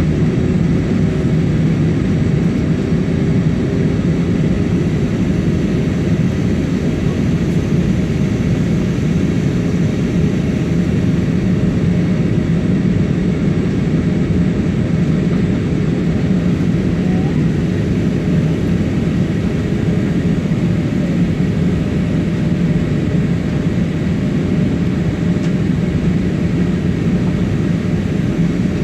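Steady cabin noise of an Airbus A320 jet airliner on approach: the even roar of the engines and airflow, with a steady low hum and a faint high whine over it.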